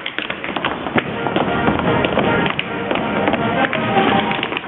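Tap shoes striking a stage floor in quick, irregular clicks over show music playing throughout.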